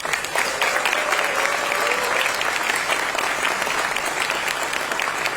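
Audience applauding, starting suddenly and holding steady throughout.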